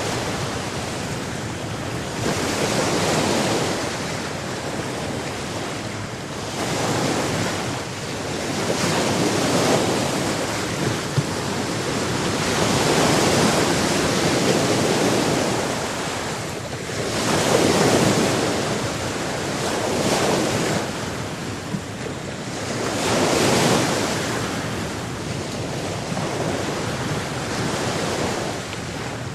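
Sea waves washing onto a shore: a continuous rush of water noise that swells and falls back every few seconds.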